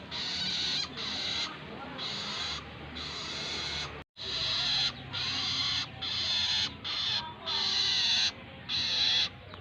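Long-tailed shrike (cendet) giving a long run of harsh, rasping calls, each about half a second long and repeated about once a second, with a brief break about four seconds in.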